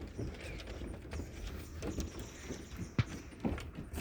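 Irregular knocks and footfalls of people walking along a bridge, with a sharper knock about three seconds in, over a steady low rumble.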